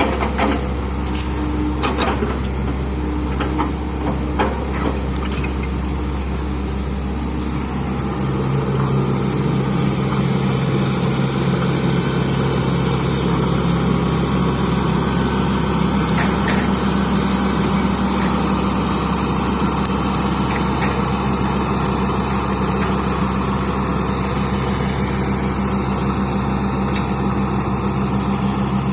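Excavator's diesel engine running steadily, with a few sharp clicks and knocks over the first several seconds. About eight seconds in, the engine note shifts and grows a little louder, then holds steady.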